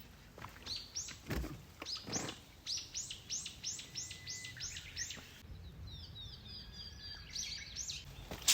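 A wild bird singing: a fast run of about ten high notes, each falling in pitch, followed by softer chirping.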